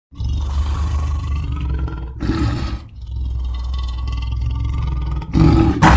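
Giant-wolf growl sound effect: a deep, sustained animal growl that starts just after a moment of silence and surges louder about two seconds in and again near the end.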